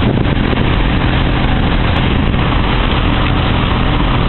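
Motorboat engine running steadily, with a dense rush of noise over it.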